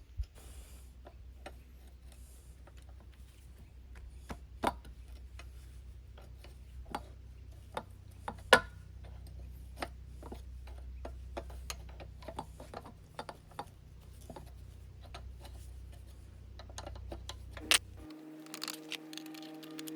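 Irregular clicks, taps and knocks of hand tools and parts being handled during work on a hydraulic cylinder, over a steady low hum. Near the end the hum cuts off and background music begins.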